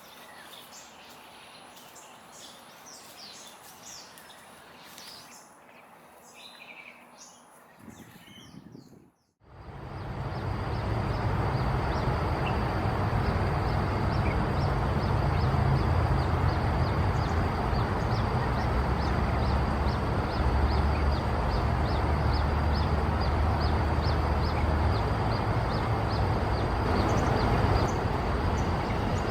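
Wild birds giving faint short chirps over a soft background. About nine seconds in, the sound cuts out briefly and is replaced by a much louder steady noise with a low rumble and faint regular high ticks.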